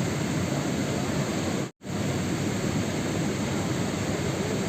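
Steady rain sound, an even hiss, that cuts out to silence for a split second just under two seconds in.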